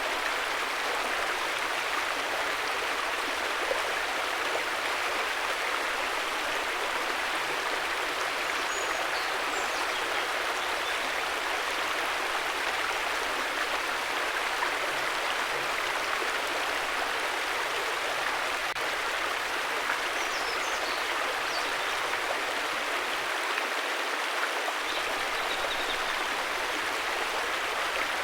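A river flowing in a steady, even rush of water, with a few faint high chirps now and then.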